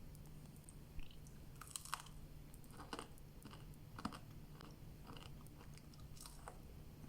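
A person chewing food, with small crisp bites and crunches every half second or so, faint and close.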